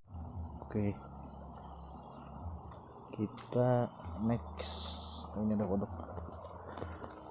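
Night insect chorus in tropical rainforest: a steady high-pitched shrill of crickets and other insects, with several short low calls scattered through it.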